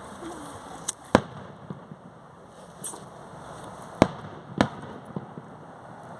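Fireworks going off: a handful of sharp bangs and cracks, the loudest about a second in and about four seconds in, over a steady background hiss.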